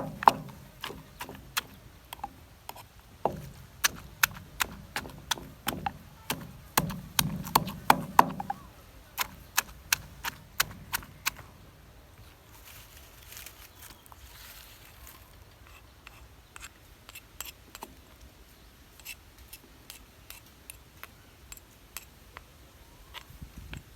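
Rapid sharp knocks of kitchen utensils, about two or three a second, loud for the first eleven seconds or so, then fainter and sparser.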